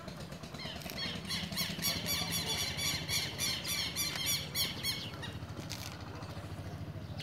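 A bird giving a rapid run of repeated high chirps for about four seconds, over a steady low hum.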